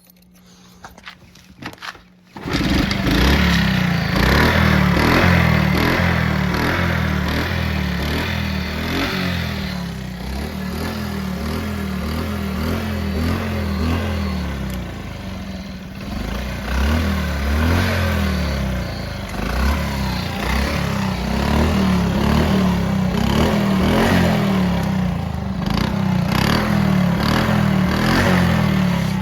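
A 1983 Honda Chaly 50's small single-cylinder four-stroke engine starting after a few faint clicks, catching about two and a half seconds in, then running steadily with its speed rising and falling a little.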